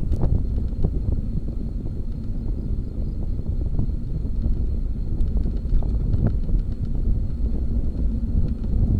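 Wind buffeting the microphone, with road rumble, from a bicycle being ridden. Small clicks and rattles are scattered throughout.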